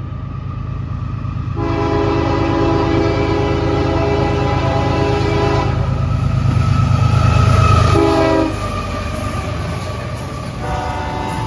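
Diesel locomotive horn of a CSX freight sounding a long blast, then a short one, then the start of another long one, the grade-crossing pattern. Under it the locomotive's engine rumble builds and is loudest just before the short blast as the locomotive passes.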